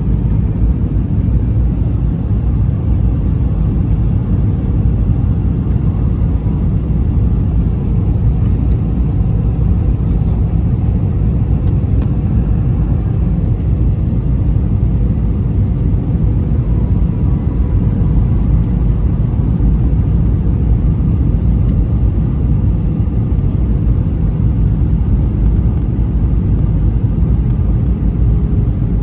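Steady roar inside the cabin of an Airbus A320-214 in flight: the rumble of its CFM56 engines and the rush of air along the fuselage, with a faint steady hum in it.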